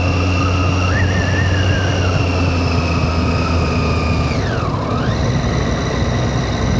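Triumph Street Triple 675's three-cylinder engine running steadily under way, with wind noise. About four and a half seconds in, the revs drop and then climb again.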